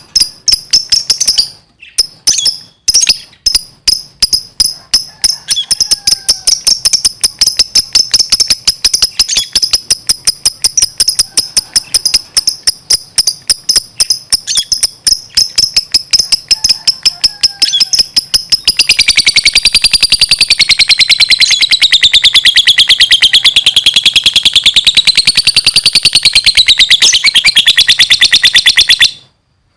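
A lovebird in full, constant song. It gives a rapid series of sharp, high chips, then about two-thirds of the way through breaks into one long, unbroken chattering trill that wavers up and down in pitch, which stops abruptly near the end.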